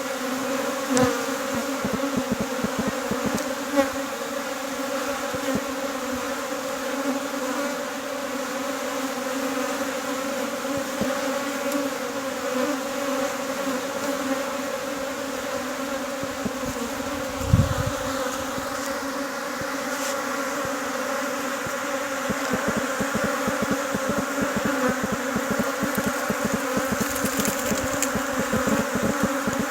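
Many honeybees buzzing together in a steady, even hum, the sound of a hive or swarm in number. A few dull low bumps break in about a second in, near four seconds and midway through.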